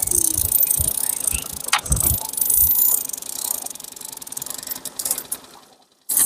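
Fishing reel ratcheting as it is cranked to bring in a rainbow trout, with wind buffeting the microphone. The sound dies away and cuts out briefly just before the end.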